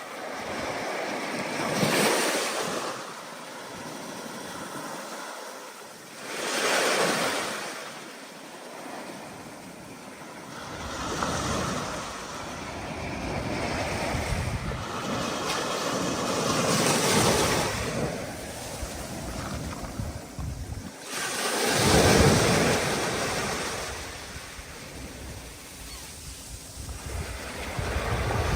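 Ocean waves surging and breaking in rhythmic swells about every five seconds under a stormy wind, with a low wind rumble on the microphone through the second half.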